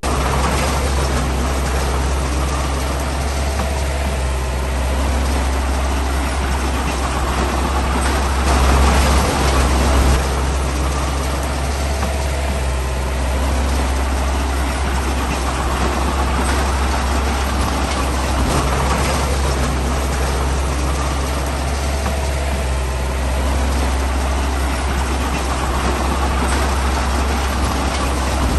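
Heavy diesel engine of road-building machinery running steadily, a deep low rumble with a brief louder surge about nine seconds in.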